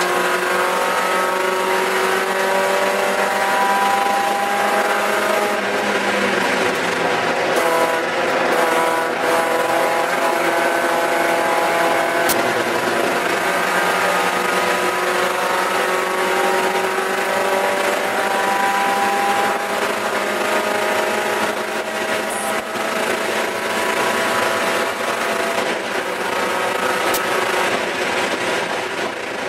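Mazda Miata race car's four-cylinder engine at full race load, heard inside the stripped, caged cabin. Its pitch climbs repeatedly as the car accelerates and drops back between the climbs.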